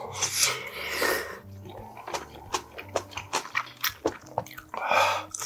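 Close-up wet chewing of a mouthful of spicy seafood ramen, with many small sharp mouth clicks. Twice, at the start and near the end, comes a long breathy puff of air blown out through the mouth against the spice.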